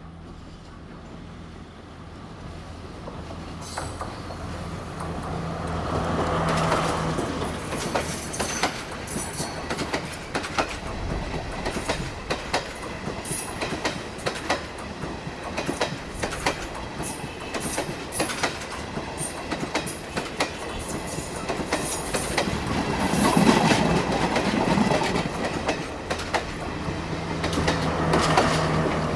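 Diesel train passing close by. A steady low engine hum swells as it nears, then a long run of wheel clicks over the rail joints follows as the carriages go past, growing louder again about three-quarters through.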